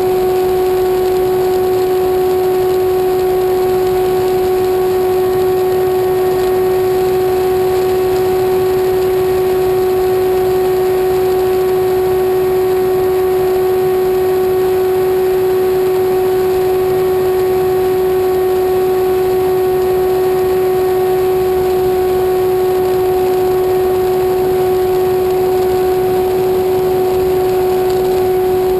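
A motor running at a constant speed, giving a loud, unwavering drone on one pitch with overtones.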